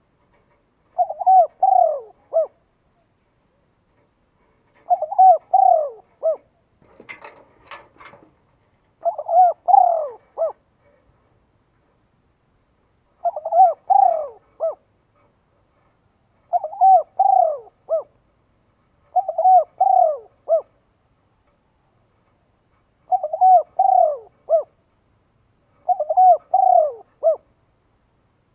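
A bird calling, repeating the same short phrase of several falling notes about every three to four seconds, eight times. A brief rustling noise comes about seven seconds in.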